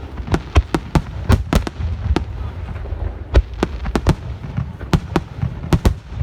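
Aerial fireworks display: many sharp bangs in rapid, irregular succession, several a second, over a continuous low rumble.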